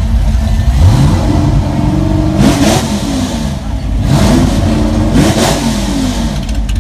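Car engine revving up twice, its pitch climbing over a couple of seconds each time to a louder peak about two and a half seconds in and again near five seconds, then dropping away.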